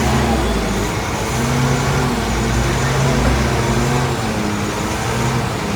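Heavy diesel engine of earthmoving machinery running steadily, with a deep rumble that eases about halfway through.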